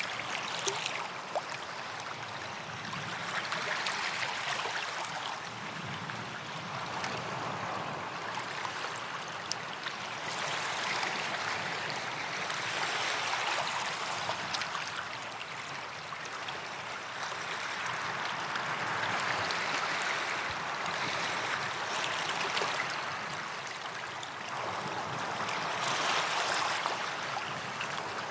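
Gentle sea waves washing onto a sand beach and drawing back, a hiss of surf that swells and fades every five seconds or so.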